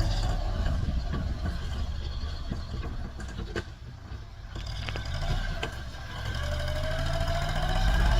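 Farm tractor's diesel engine running, easing off around the middle and revving up again toward the end.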